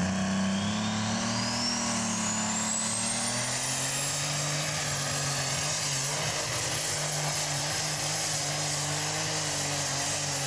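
Turbocharged super stock pulling tractor engine running hard under full load on a pull. A high turbo whine climbs over the first few seconds, then holds high over the steady engine note.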